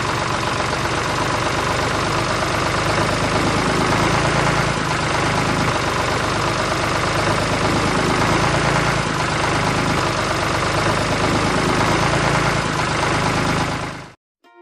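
Small engine of a DIY miniature tractor running steadily; it cuts off abruptly near the end.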